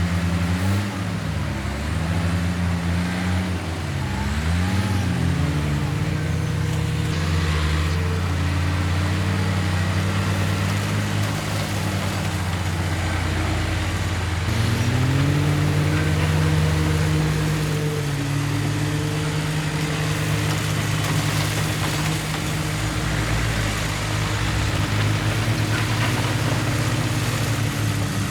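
Heavy diesel engines of earthmoving machinery working. The engine note dips and rises several times in the first few seconds and climbs again about halfway through, as the engines are throttled up and down under load.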